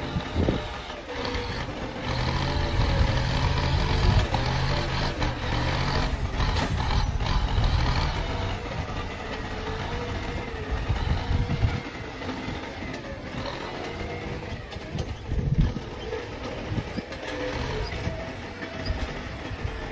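Excavator engine running as it works, its sound rising and falling with the load, with a few short knocks.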